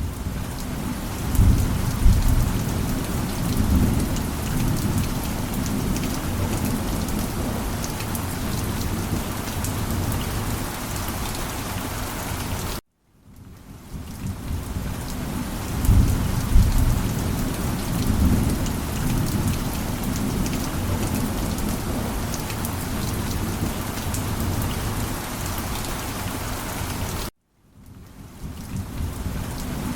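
Steady rain with rumbling thunder, which swells about two seconds in and again about halfway through. Twice the whole sound cuts out suddenly and fades back in, as a short rain-and-thunder recording looped end to end.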